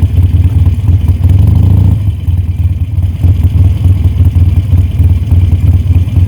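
Harley-Davidson Sportster Iron's air-cooled V-twin engine running loud with a pulsing exhaust beat, holding steadier for a moment about a second in.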